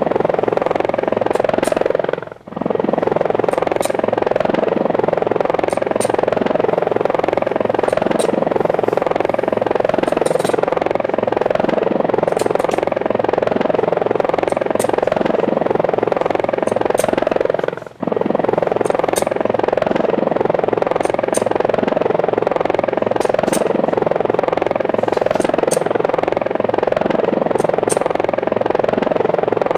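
Steady helicopter rotor noise, even and unbroken except for two brief dropouts, a couple of seconds in and just past the middle.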